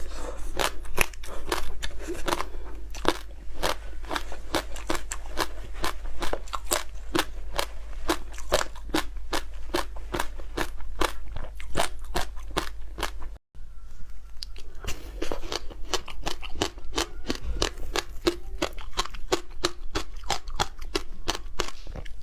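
Crunching and chewing of frozen passion fruit: a dense, unbroken run of sharp crackles and crunches, with a momentary silent gap just past halfway.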